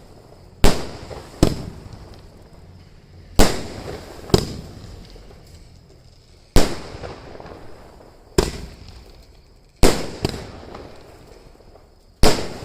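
Diwali fireworks going off: about ten sharp, loud bangs, mostly in pairs a fraction of a second to two seconds apart, each with a short echoing tail.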